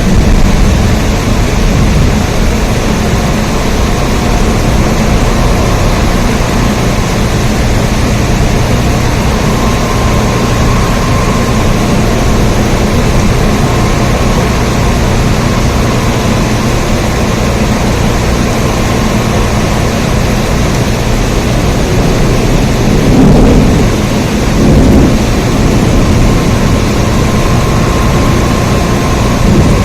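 Steady heavy rain with a deep, constant rumble underneath, swelling louder twice about three quarters of the way through.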